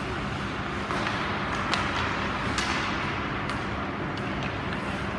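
Ice hockey game in a rink: a steady wash of skating and hall noise over a faint hum, with a few sharp clacks of sticks and puck about a second apart.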